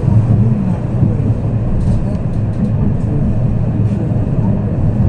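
Tram running along its track, heard from inside the car: a steady low rumble with a few faint clicks.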